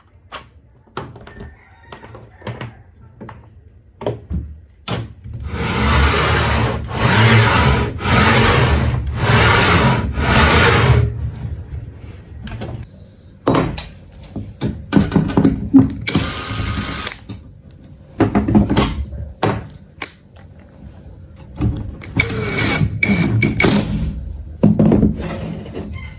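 Workshop sounds: a handheld power tool run in about five roughly one-second bursts, then more short bursts mixed with knocks and clatter of parts being handled.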